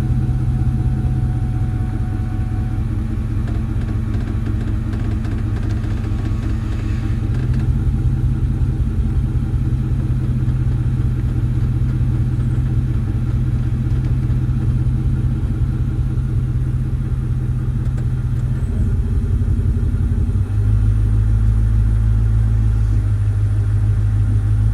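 2002 Ford Mustang GT's V8 idling steadily. About 20 seconds in the low rumble becomes louder and deeper.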